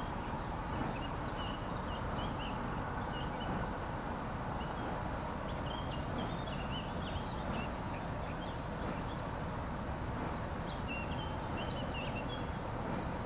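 Small birds chirping and twittering in short scattered notes throughout, over a steady low background rumble.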